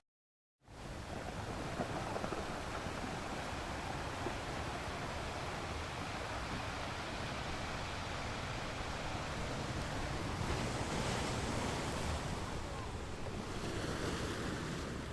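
Sea waves washing ashore: a steady rush of surf that starts after a brief silence and swells a little about ten seconds in.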